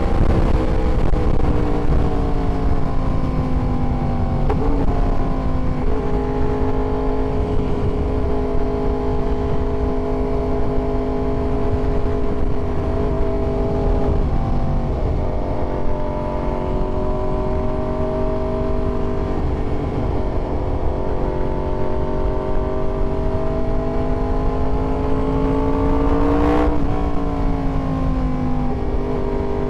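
Yamaha YZF-R1 inline-four engine running under way, over a steady low rumble. The engine note sinks at first, jumps in pitch with gear changes, then climbs steadily for about ten seconds before dropping sharply at a shift near the end.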